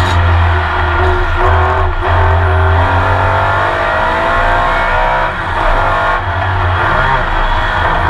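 Porsche 911 RSR flat-six racing engine heard onboard under load. The engine note climbs in pitch for a few seconds in the middle and dips briefly about five seconds in.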